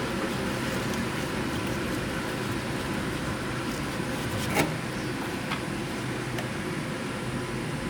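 An engine running steadily, with one sharp click or knock a little past halfway.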